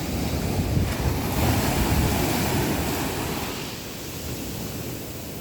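Sea waves breaking and washing up the beach: the surge swells about half a second in and falls away after about three seconds. Wind rumbles on the microphone throughout.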